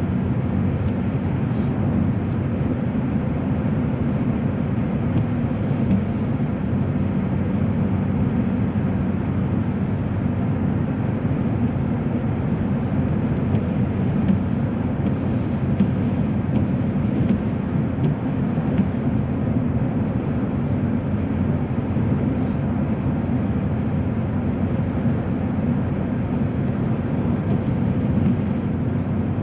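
Steady engine and tyre noise heard from inside a moving car's cabin, an even low hum that does not change.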